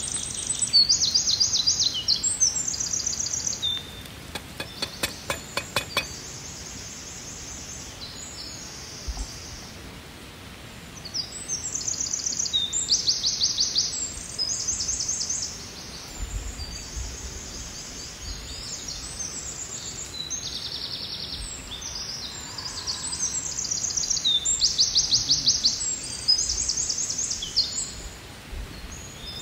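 Songbirds singing: many short, high, rapid trilled phrases repeated one after another over a steady outdoor background hiss. A quick run of sharp clicks comes about five seconds in.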